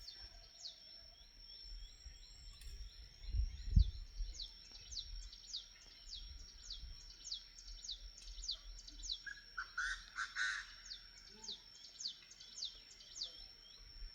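Bird calls: a long run of short, high, downward-sliding chirps, about two to three a second, over a steady high-pitched tone. A low thump comes about four seconds in, and a brief lower, fuller call breaks in near the middle.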